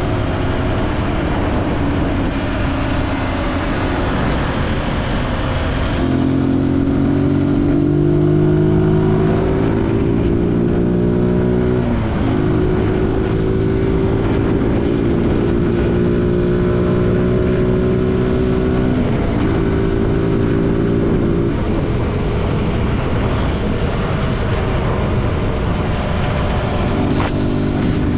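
Zontes G1 motorcycle's single-cylinder engine heard from the rider's helmet, pulling up in pitch for several seconds, dropping sharply at a gear change, then cruising steady and easing off twice. Steady wind and road hiss run underneath.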